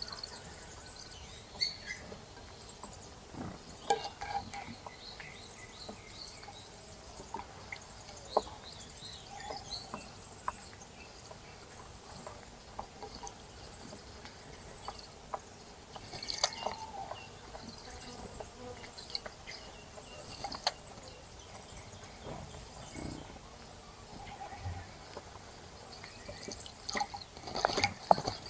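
Birds at a bird bath: thin, high chirps and calls scattered throughout, with short taps and splashes of water, and a burst of louder splashing near the end.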